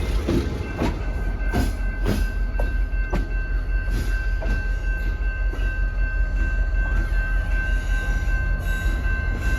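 A train rolling past, its wheels clicking over the rail joints about twice a second over a steady low rumble, with a thin steady whine held throughout.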